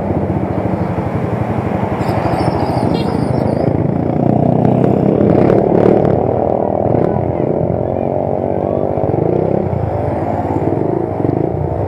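Motorcycle engine running steadily while riding, with a loud swell for a couple of seconds around the middle.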